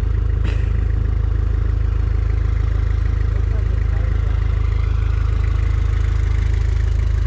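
Vehicle engine running steadily with a deep, even drone and no revving; one short click about half a second in.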